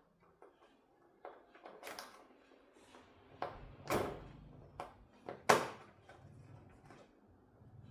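Hands handling objects on a workbench: a few irregular knocks and clicks, the loudest about five and a half seconds in.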